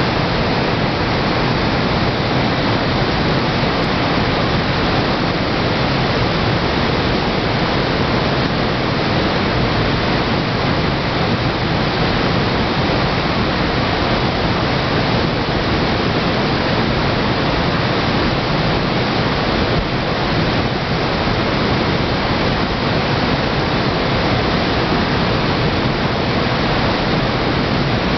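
Waterfall: a loud, steady rush of falling water that never changes.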